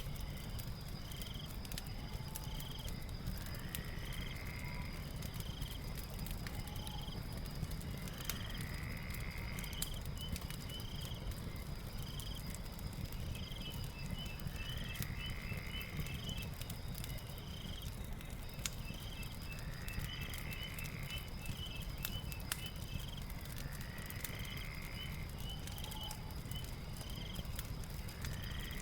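Crackling fire, irregular sharp pops over a low steady rumble, under a night-time nature ambience: a steady high insect drone, short chirps in quick runs, and a rising call repeated about every five seconds.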